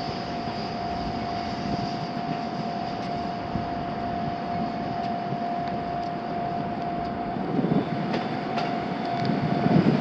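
Sotetsu 11000 series electric commuter trains running on the line: a steady whine over a rumble. Near the end, louder wheel rumble and clicks build up as a train passes close.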